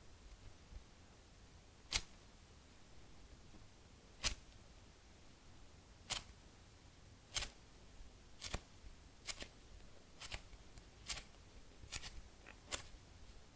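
Foam squishy toys being squeezed and handled, giving about ten sharp, short clicks at uneven spacing that come quicker in the second half.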